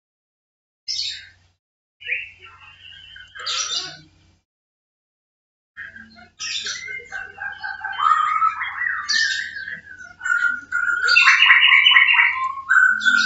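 A bird chirping and calling in a run of varied, warbling notes. Brief bursts come first, then a longer, busier stretch in the second half, loudest near the end.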